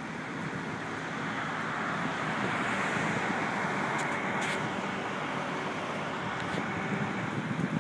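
A road vehicle passing: a rushing noise that swells to a peak around the middle and then fades.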